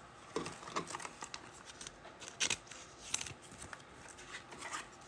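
Trading cards being handled and slid against one another: a few faint, irregular clicks and light rustles of card stock.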